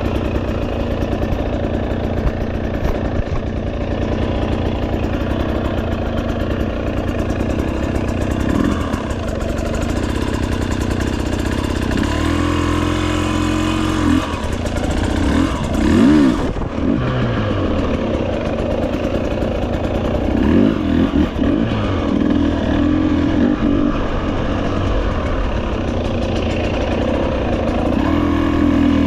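Motorcycle engine running while riding a dirt trail, holding a steady drone for the first dozen seconds, then revving up and down with the throttle several times through the middle and again near the end.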